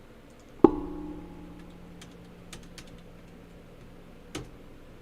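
Typing on a computer keyboard, scattered light clicks. About half a second in, a sharp hit sets off a ringing tone that slowly fades; another short click comes near the end.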